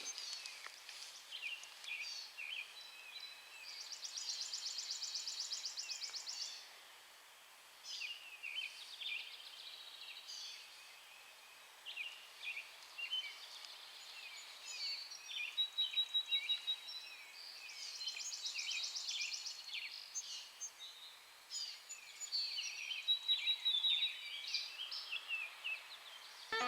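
Several songbirds singing in woodland: many short chirps and whistled notes, with two fast trills of rapidly repeated notes, one at about four seconds in and another at about eighteen seconds in, and quick runs of repeated notes near sixteen and twenty-three seconds in.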